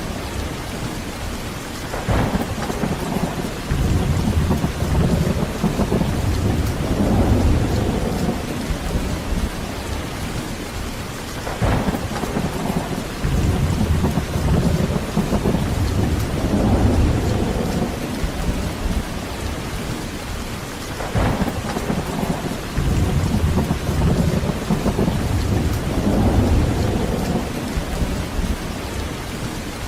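Heavy rain falling steadily, with thunder rolling over it. Three long low rumbles swell and fade about ten seconds apart, each opening with a sharp crack.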